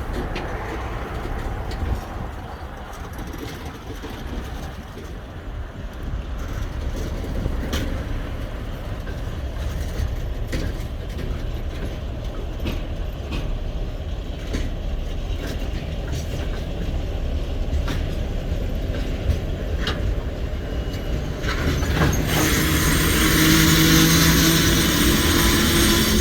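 ChME3 diesel-electric shunting locomotive working a freight train: a steady low engine and rail rumble with occasional sharp clicks of wheels over rail joints. Near the end it grows louder, with a hiss and a few steady tones over it.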